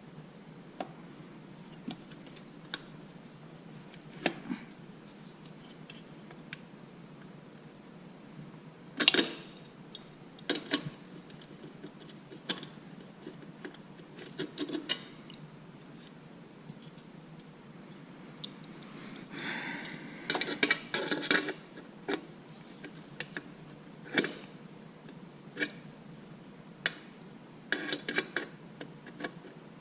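Scattered metallic clinks, clicks and short rattles of hand tools and exhaust hardware being handled and fitted, the busiest clatter about two-thirds of the way in.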